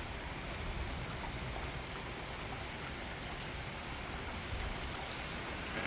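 Steady rain falling in a thunderstorm, an even hiss with no break.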